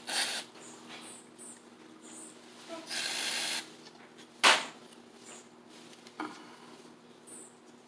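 Short hisses of an aerosol carburetor cleaner being sprayed, one at the start and a steadier one of about half a second around three seconds in. A single sharp knock, the loudest sound, follows a second later, with a small click near the end and a few faint high chirps.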